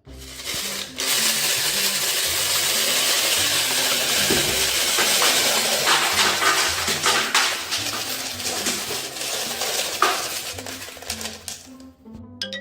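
Dense clattering and rustling of small hard plastic toy pieces being handled, with many small clicks, starting suddenly and thinning out near the end.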